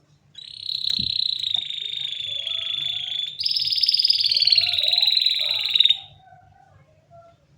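Domestic canary singing two long, very rapid rolled trills back to back: the first starts under half a second in, and the second, slightly higher, comes in at about three seconds and cuts off at about six seconds. Softer, lower warbling follows near the end.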